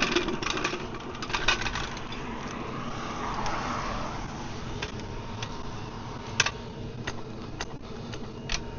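Scattered metallic clinks and knocks of steel axle stands being positioned and set under the van.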